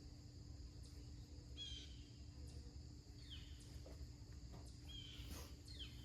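Faint steady hum of honeybees around an opened hive, with a bird chirping briefly twice, about one and a half and five seconds in.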